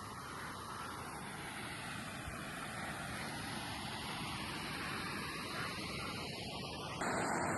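Steady wind rushing over the open moor, with a sudden jump in level about seven seconds in.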